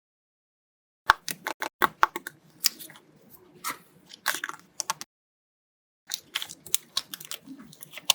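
Paper crinkling and rustling as paper blind-bag pieces are handled: two runs of crisp, irregular crackles and clicks, the first starting about a second in and the second starting about two-thirds of the way through.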